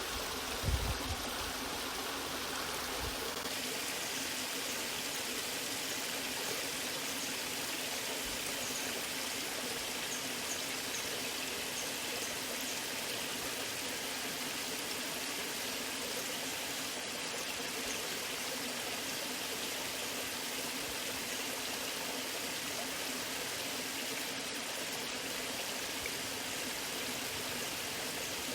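Waterfall: a steady, even rush of falling water. A few low rumbling thuds in the first second.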